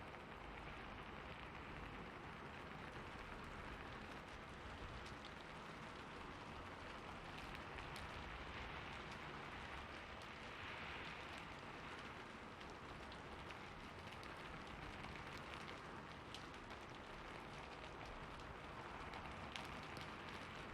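Steady rain: an even, soft hiss with scattered faint drop ticks.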